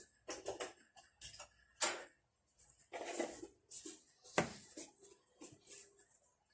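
Irregular light clicks and taps of kitchen utensils and containers being handled, with two sharper knocks about two seconds in and near the middle.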